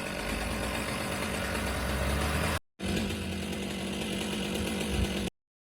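Chainsaw engine running steadily, heard in two edited pieces with a brief dead gap between them, cutting off abruptly near the end.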